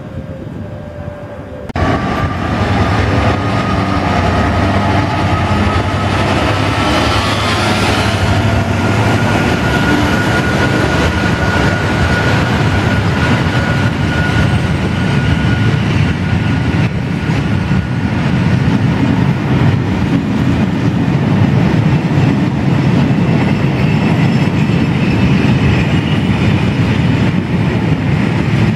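Freight train of open box wagons passing close by, wheels and wagons rumbling and clattering steadily on the track. The noise starts suddenly about two seconds in, and a thin high whine rises slowly through the first half.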